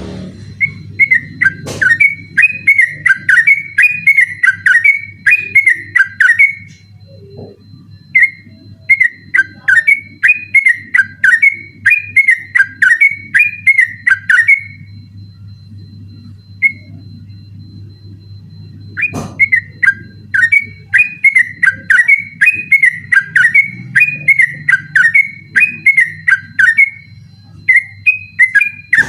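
Yellow-vented bulbul (trucukan) singing its rapid rolling 'ropel' song: long runs of quick, loud, warbled whistled notes. There are three main phrases, with a pause of a few seconds in the middle of the stretch.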